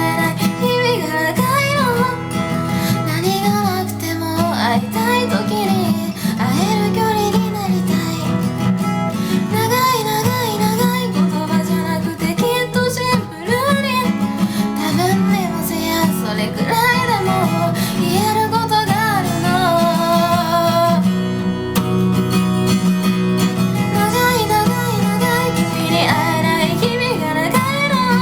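A woman singing a song to her own acoustic guitar accompaniment. The voice breaks off briefly about three-quarters of the way through while the guitar carries on.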